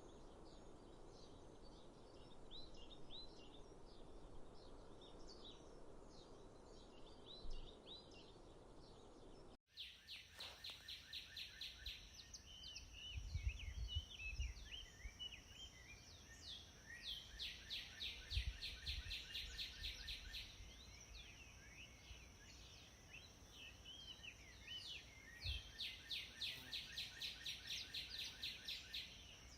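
Small birds singing and chirping outdoors, in two recordings joined by an abrupt cut about ten seconds in. The first has the song over a steady low rush; the second has fast runs of repeated chirps and trills over a thin, steady high whine, with a few soft low thumps.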